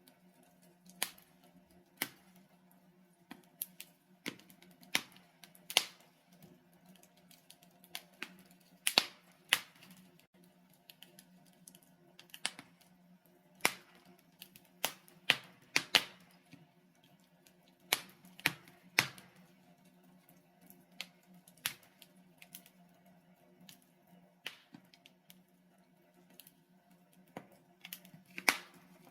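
Wood fire of burning logs crackling in a fireplace: irregular sharp pops and snaps, about one or two a second, over a faint steady low hum.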